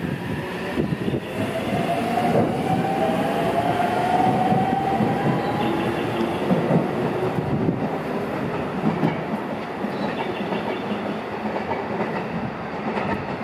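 Freight train rolling through the yard: wheels clattering over rail joints and points, with a faint tone that rises slowly in pitch over the first few seconds.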